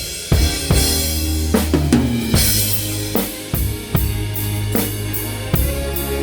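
A band playing a song, led by a drum kit: kick, snare and cymbal strikes over sustained bass notes.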